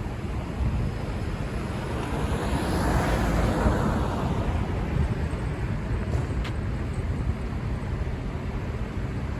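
Road traffic with low rumble on the microphone; a vehicle passes, swelling and fading about three to four seconds in. A single short click sounds about six and a half seconds in.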